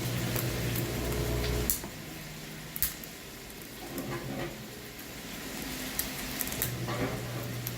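Scattered clicks and crinkles of small plastic toy packaging being worked open by hand. Under them a steady low hum stops about two seconds in and comes back near the end.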